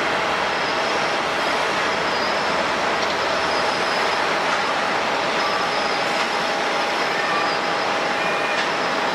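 Steady rushing noise with a faint high whine, the drone of jet airliner engines on the airport apron.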